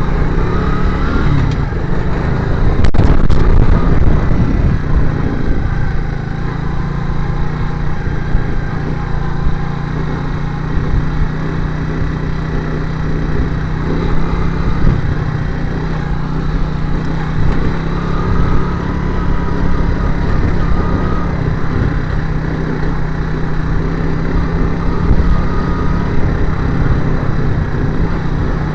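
Motorcycle engine running at a steady pitch over a continuous rushing noise, briefly louder a few seconds in.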